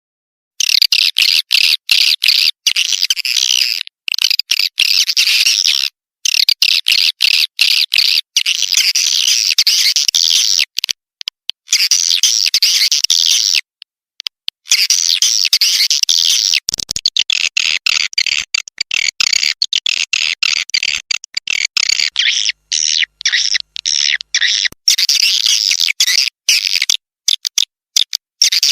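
Edible-nest swiftlets twittering: a dense, high chirping chorus from a swiftlet call (lure) recording of the kind played to draw swiftlets into a nesting house. It starts about half a second in and is chopped by many abrupt short silences.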